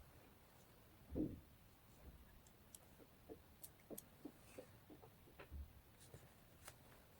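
Faint handling sounds of paper and stationery in journal collaging: one soft thump about a second in, then a string of small, light clicks and taps.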